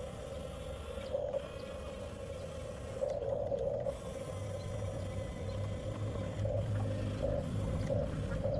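Electric drive motors and gearboxes of a 1/14-scale Huina RC bulldozer whining steadily as the machine runs, the whine swelling several times.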